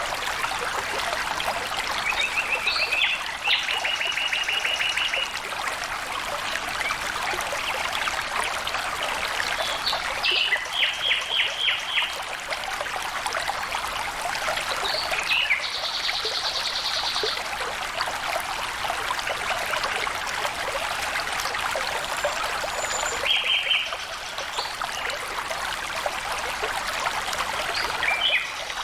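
Water trickling and flowing steadily, with birds calling over it now and then in short, rapid trills, a few times through.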